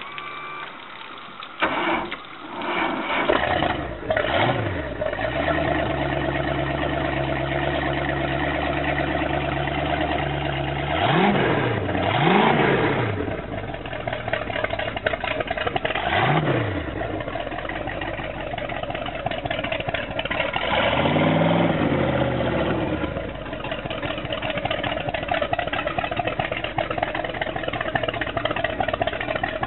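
Boat's 502 cubic-inch big-block Chevrolet V8 starting about two seconds in and settling into a steady idle. The throttle is blipped several times, each rev rising and falling quickly, with a longer rev later on before it drops back to idle.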